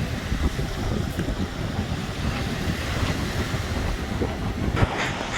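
Wind buffeting a microphone: an uneven low rumble with gusty flutter. A brief click comes near the end.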